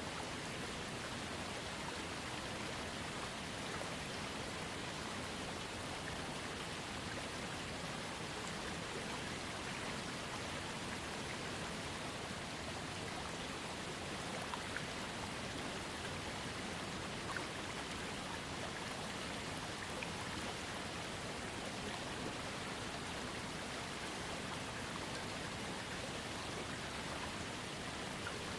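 Waterfall and creek water falling and splashing, a steady even rush with a few faint drips and splashes standing out.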